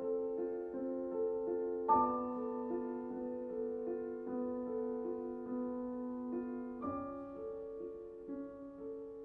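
Slow, soft solo piano music: sustained chords ringing on, with new chords struck about two seconds in and again about seven seconds in, then slowly fading.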